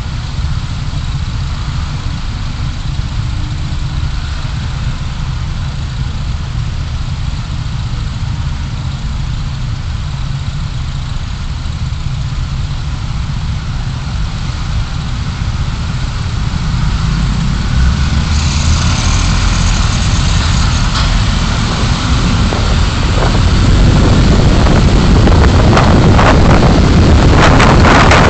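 Car driving, heard from inside by a dashcam: a steady low rumble of engine and road noise that grows louder over the last ten seconds, with gusty wind noise near the end.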